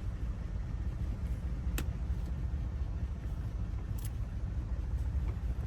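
A steady low rumble throughout, with a sharp click nearly two seconds in and another about four seconds in.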